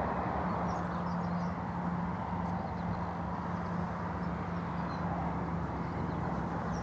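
Douglas DC-3's twin radial engines giving a steady low drone as the aircraft climbs out after takeoff.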